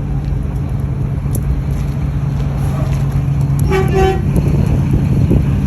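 A steady low car engine drone, and about four seconds in a short double toot of a car horn.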